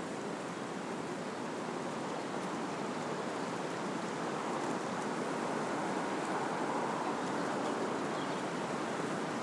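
Wind blowing through trees, a steady rush of moving leaves and branches that swells a little about halfway through.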